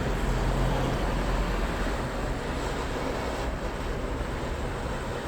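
Handheld gas torch flame running with a steady hiss and low rumble, heating a broken bolt to soften its thread-locker. The rumble is heaviest in the first second, then eases.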